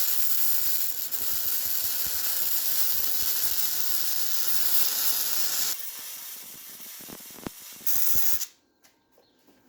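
Titanium 140 MIG welder arc crackling and hissing steadily as a weld bead is laid, set to about 18 volts with the wire speed at 250. About six seconds in the arc drops away, comes back for one short burst near the end, then stops.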